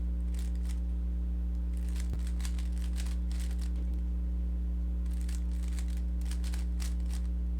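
A Rubik's cube being turned quickly, its layers clicking and rattling in runs of rapid turns with short pauses between, over a steady electrical mains hum.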